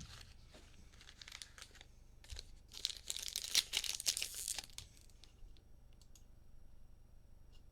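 Plastic trading-card pack wrappers crinkling and tearing as packs are handled and opened, in a burst of crackling from about two and a half to five seconds in, with scattered small clicks around it.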